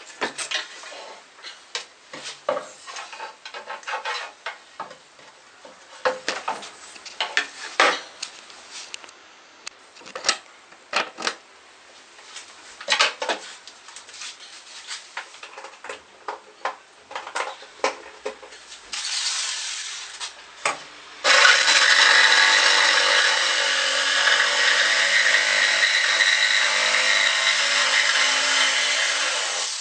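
A long run of scattered knocks and clicks from work being handled. Then, about two-thirds of the way through, an electric power tool starts with a short burst and runs loud and steady, its motor humming under the noise.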